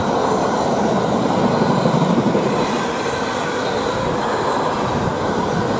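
Intermodal freight train's container wagons running past, a steady noise of wheels on the rails.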